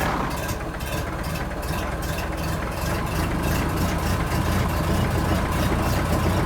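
Engine running steadily with a fast, even chugging pulse, in the manner of a tractor engine idling.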